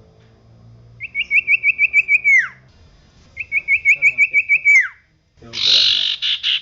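Common iora singing: two phrases of about eight quick rising notes, each ending in a long falling whistle. A short harsh, rasping chatter follows near the end.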